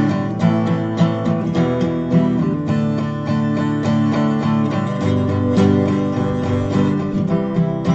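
Acoustic guitar strummed in a steady rhythm, playing an instrumental introduction to a song.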